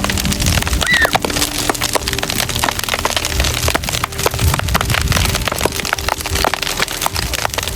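Wood bonfire crackling, with dense, irregular snaps and pops.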